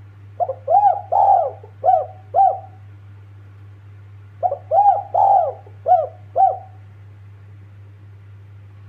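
Spotted dove (tekukur) cooing: two phrases of five or six rising-and-falling coos each, a couple of seconds apart, over a steady low hum.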